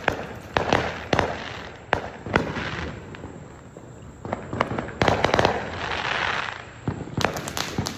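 Consumer fireworks going off around the neighbourhood: scattered sharp bangs at varying distances, a crackling, hissing burst about five to six seconds in, and a quick run of pops near the end.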